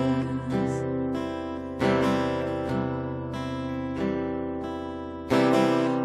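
Instrumental music on acoustic guitar, slow chords strummed every second or so and left to ring.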